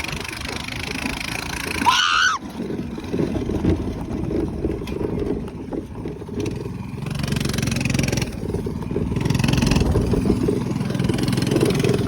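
Minibike's small engine running under a rough, continuous rumble over bumpy ground, with a brief rising squeal about two seconds in. The engine note holds steadier in the second half.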